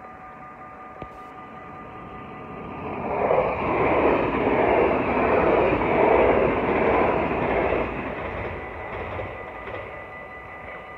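NS yellow double-decker electric passenger train passing through a level crossing. Its wheel-and-rail rush swells about three seconds in, holds loud for several seconds and fades away after about eight seconds. The crossing's warning bells ring steadily throughout.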